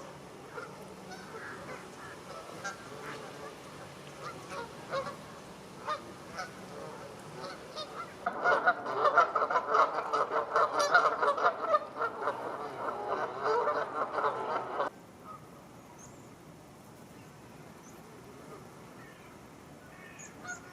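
Geese honking: a few scattered calls at first, then about halfway in a dense, loud chorus of rapid honks from a flock that cuts off abruptly, leaving quieter background with faint bird calls.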